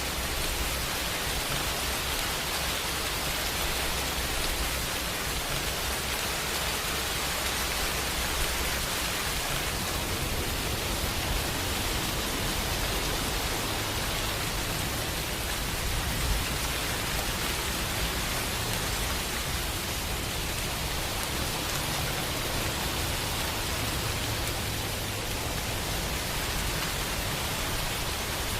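Steady rain falling, an even hiss of many drops with no single drop standing out. About ten seconds in, a low rumble swells in underneath, typical of distant thunder.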